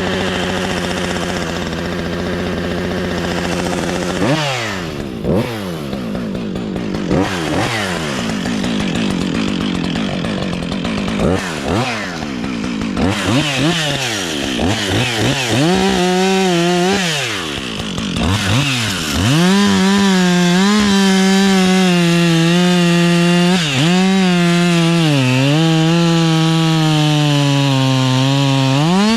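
Two-stroke chainsaw running steadily, then revved up and down in repeated throttle blips. From about halfway it is held at high revs with its pitch dipping now and then, as it does when cutting under load.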